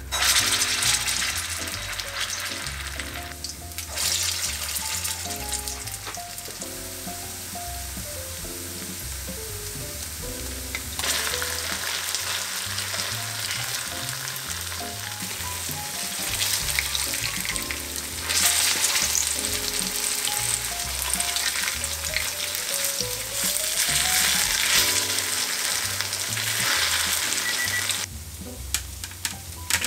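Grated lotus root mochi frying in oil, with a steady sizzle that swells and eases in stretches and dies down near the end. Soft background music with short plucked notes plays underneath.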